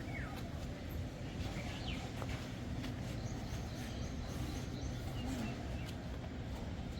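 A steady low rumble with faint, high bird chirps over it, including a run of short repeated notes near the middle.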